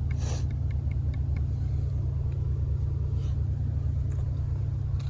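Steady low rumble with a few faint clicks and a brief hiss near the start.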